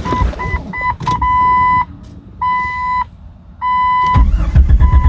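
Ford Ranger's dash warning chime beeping, at first in short beeps and then in longer tones. About four seconds in, the engine catches on a cold start after long sitting and runs with loud, rapid exhaust pulses through open headers and downpipe, the chime still sounding over it.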